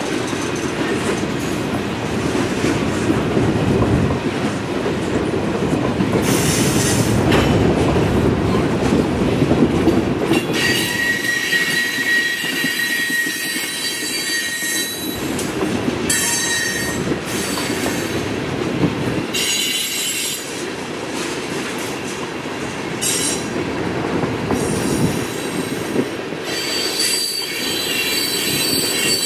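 Freight train rail cars rolling past with a steady rumble of wheels on the track, and steel wheels squealing against the rails in several spells, longest in the middle and again near the end.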